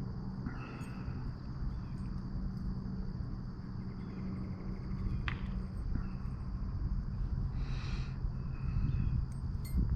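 Insects droning steadily, a constant high buzz, over a low rumbling noise, with a few faint chirps and one brief sharp sweep about five seconds in.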